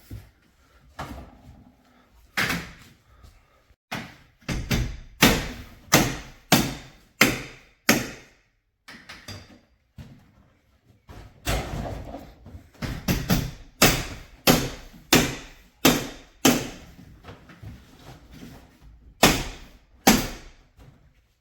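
A series of heavy knocks or thuds at a steady pace, between one and two a second, in two runs with a pause between them and a couple more near the end.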